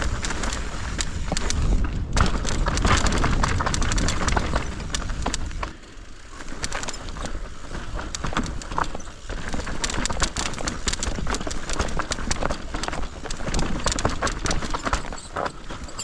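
Mountain bike clattering down a rocky trail: dense rattling and knocking of tyres over rock and the bike's chain and frame shaking, with a brief lull about six seconds in.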